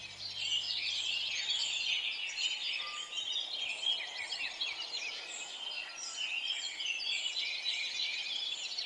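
Many small birds chirping at once in a dense, continuous chorus of short high chirps.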